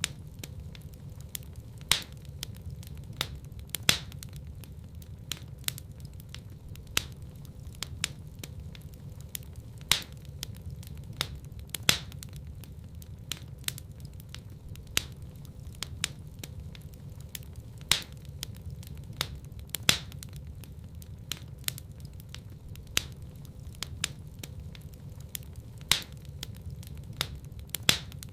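Fire crackling in a fireplace: frequent sharp crackles and pops, the loudest about every two seconds, over a steady low rumble of the flames.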